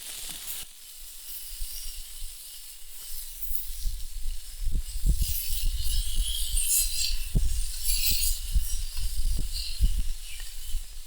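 Pork sausages sizzling on a Biji griddle plate over a campfire, a steady high hiss. From about four seconds in, wind buffets the unshielded microphone in loud rumbling gusts.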